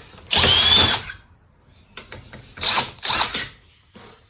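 Cordless electric screwdriver whirring in three short bursts while it works screws out of the TV's frame. The first burst, about half a second in, is the longest and loudest; two shorter ones follow close together past the middle.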